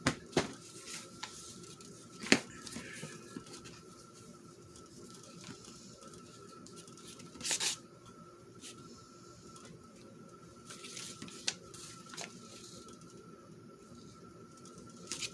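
Paper being handled and laid down on a craft table: soft rustling with a few sharp taps, the loudest about two seconds in, and a short rustle near the middle. A faint steady whine sits underneath.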